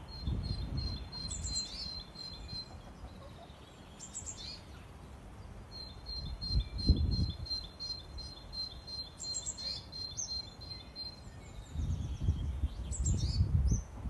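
Small birds singing outdoors, two long runs of rapid, high repeated notes with scattered chirps between. Bursts of low rumble come in and out, the loudest about seven seconds in.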